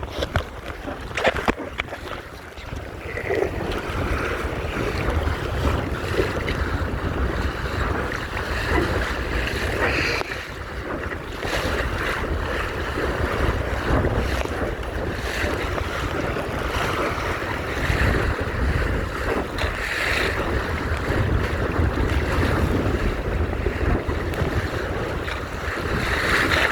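Wind buffeting the microphone with a steady low rumble, over water rushing and splashing against the hull of a Topper sailing dinghy under way in a fresh breeze. A few short knocks come in the first couple of seconds.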